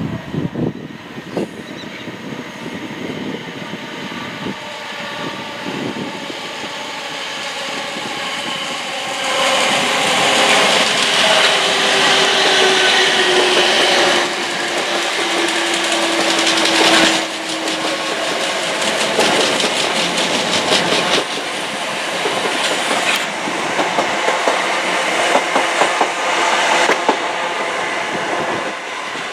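Passenger train passing below, growing louder, with a falling whine in its loudest stretch. Through the second half its wheels click over the rail joints in a steady rhythm.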